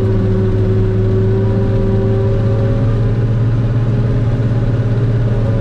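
Forage harvester's diesel engine running steadily with a deep, even hum. A higher whine fades out about halfway through.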